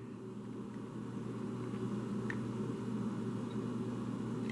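A steady low mechanical hum that slowly grows louder, with a faint tick or two.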